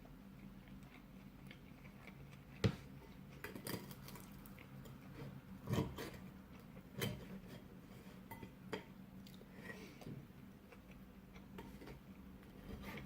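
Person eating pizza: chewing with scattered clicks and light knocks, the loudest about three and six seconds in, over a low steady hum.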